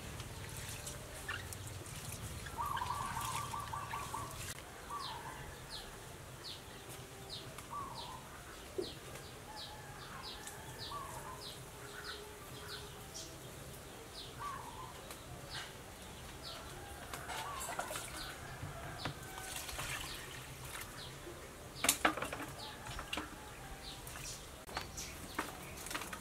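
Outdoor ambience: a bird repeats short, high, falling chirps about once or twice a second, over soft water sloshing from hands washing sticky rice in a bowl during the first few seconds. A single sharp knock stands out about 22 seconds in.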